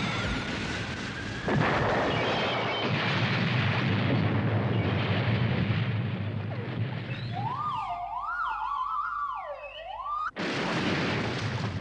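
Cartoon explosion sound effects of a defeated villain mecha: a rising whine, then a long explosion rumble starting about a second and a half in. Near the end a warbling, siren-like effect rises and falls repeatedly, cuts off suddenly, and the rumble resumes.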